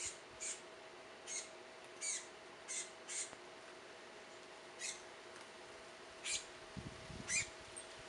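Small songbird giving short, sharp high chip calls, about nine spaced irregularly up to a second and a half apart, over a faint steady hum. A few low thuds come near the end.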